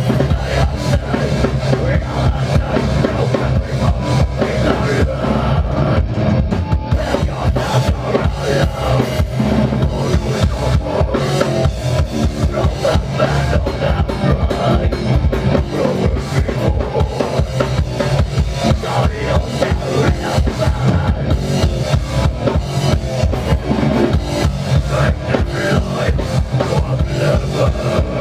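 Live progressive death metal band playing, the drum kit driving with rapid bass-drum and snare strikes under a dense, unbroken wall of band sound.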